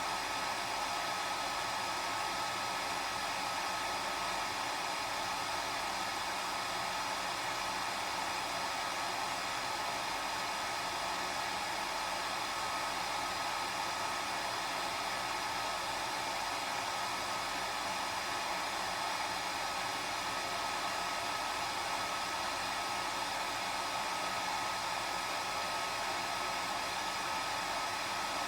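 Hair dryer running steadily: an even rush of air with a steady high whine from the motor, unchanging in level.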